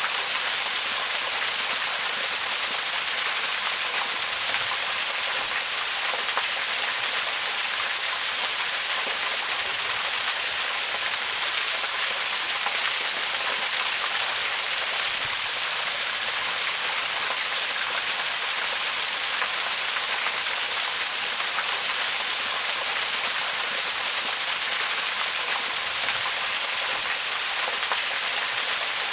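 Waterfall: a steady, unbroken rush of falling water. It is heavy in the high hiss and spray, with little low rumble.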